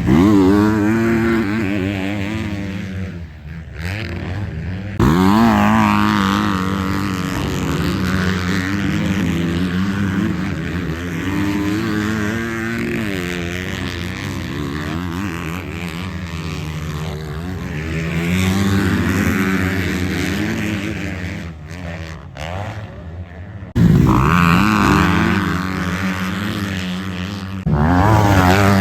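Motocross bikes racing, their engines revving up and falling back as they accelerate and shift, with several abrupt jumps in the sound where the shots change.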